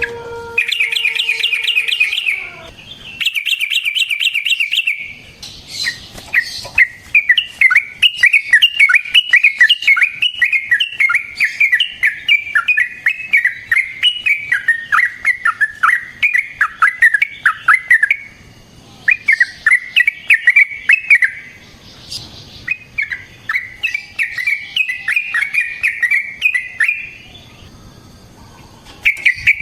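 Yellow-vented bulbul (trucukan) singing long runs of quick, bubbly chattering notes, broken by short pauses; the longest run goes on for about twelve seconds.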